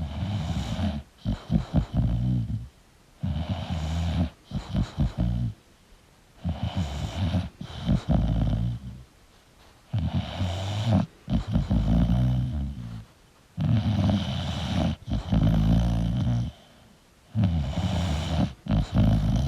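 English bulldog snoring in its sleep: a rattling snore about two seconds long, repeating roughly every three seconds, with near-silent gaps between breaths.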